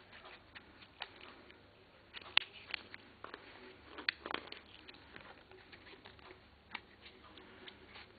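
Thin plastic sheet crackling and clicking as it is bent and rolled around a screwdriver to fold a homemade helicopter blade. Faint, irregular ticks, with a few sharper clicks about two and four seconds in.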